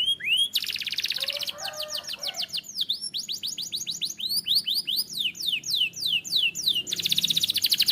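Canary singing: very fast, even trills of repeated notes alternate with series of slower, downward-sliding whistled notes, a fresh fast trill starting near the end.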